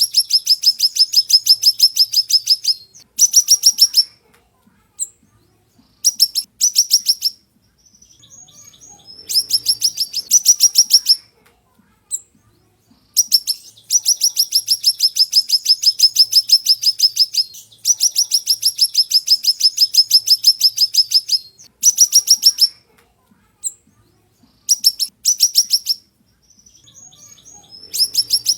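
Siri-siri songbird singing in rapid, high-pitched trills of quickly repeated sweeping notes, in bursts of one to four seconds with short pauses between. Softer twittering fills two of the pauses.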